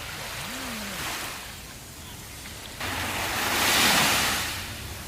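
Sea waves on a sandy beach: a gentle swell of surf, then a wave breaks suddenly about three seconds in, grows to its loudest a second later and washes out.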